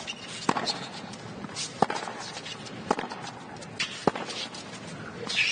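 Tennis ball impacts on court: four sharp knocks about a second apart over a quiet background.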